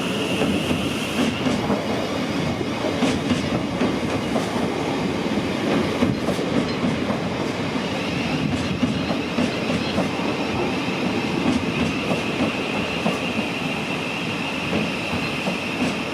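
Thameslink electric train running along the track, its wheels clicking over rail joints. A high squealing tone sounds at the start and comes back from about halfway.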